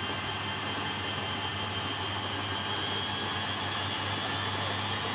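LG washing machine running steadily: a constant motor hum under an even hiss, with no pauses.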